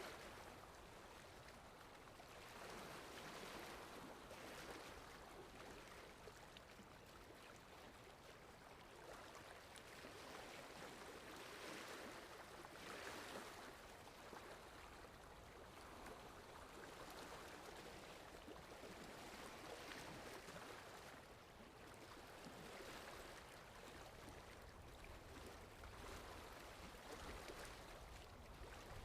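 Faint sea waves washing in: a soft, steady rush of water that swells and ebbs every few seconds.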